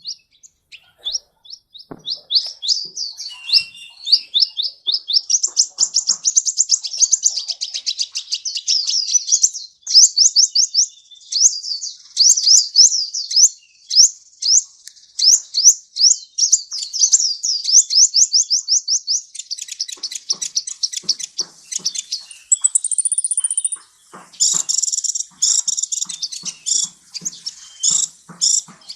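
A sunbird singing, in long fast runs of high, repeated chirping notes with hardly a pause. About two-thirds of the way through, the song turns more broken and clicky, with a brief higher whistle.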